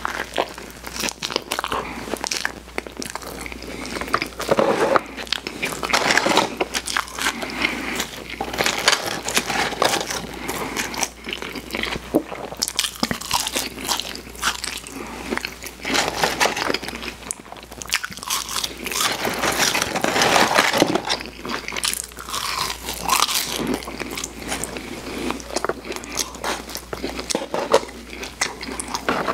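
Close-up mouth sounds of a person eating a Big Mac and french fries: biting, wet chewing and crunching, with dense irregular mouth clicks throughout.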